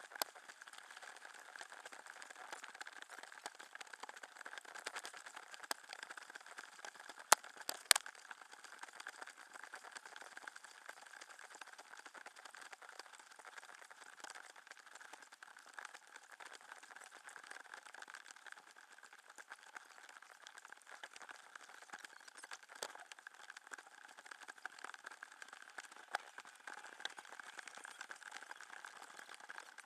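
Faint water trickling and splashing around a kayak, with scattered small clicks and two sharp clicks about seven and eight seconds in.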